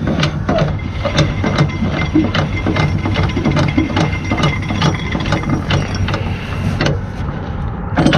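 Hand-cranked strap winder on a flatbed trailer's rub rail winding up a cargo strap, with a quick even run of ratcheting clicks, about three or four a second, that stops about seven seconds in. A steady low hum runs underneath.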